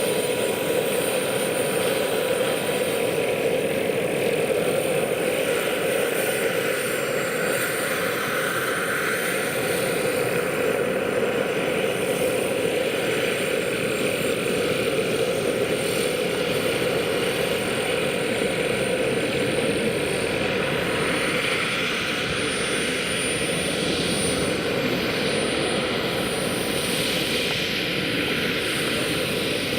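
Large-scale RC model SA 315B Lama helicopter in flight, its small gas turbine giving a steady high whine over an even rush of rotor noise.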